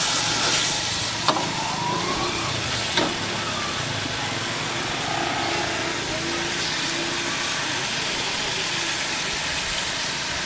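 Chicken frying in a large iron wok, sizzling steadily, with the metal ladle clanking against the pan twice in the first few seconds.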